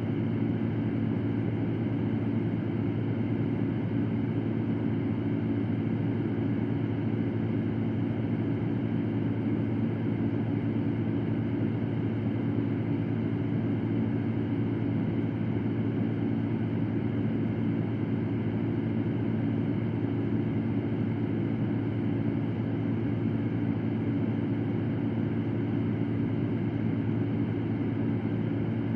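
Electric fan running steadily: an even, unchanging hum with a soft airy rush over it.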